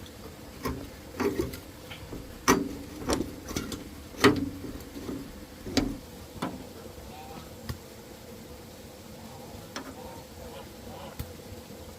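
Irregular knocks and clatters of hard objects, about a dozen in the first seven seconds, several with a short hollow ring. Only a few faint clicks follow.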